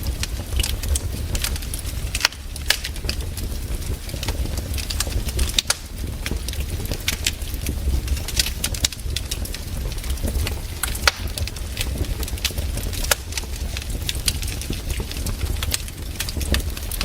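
Wood campfire burning and crackling, with irregular sharp pops and snaps over a steady low rumble.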